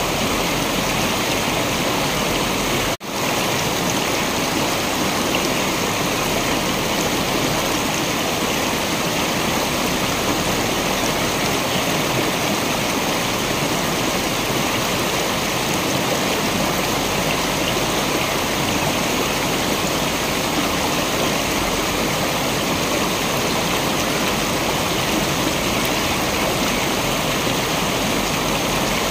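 Waterfall water rushing in a steady, even roar, with a split-second drop in level about three seconds in.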